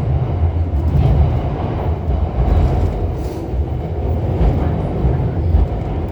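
Guangzhou Metro train running between stations, heard from inside the car: a steady low rumble of wheels and running gear on the track.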